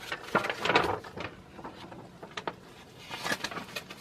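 Paper catalog being handled: bursts of rustling with light knocks and clicks about half a second in and again near the end.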